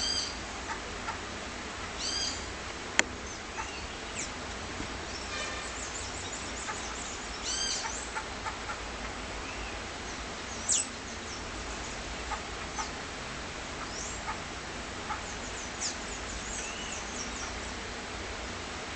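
A mixed flock of tanagers and clay-colored thrushes chirping and calling in short, scattered notes at a feeding table, with one sharp tap about three seconds in.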